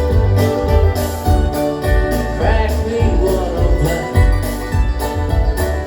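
Live bluegrass band music with singing, over a strong bass line and a steady drum beat.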